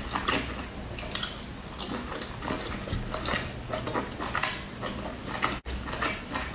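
Mouth sounds of eating a soft steamed dumpling: chewing with wet smacks and clicks coming in short, irregular bursts.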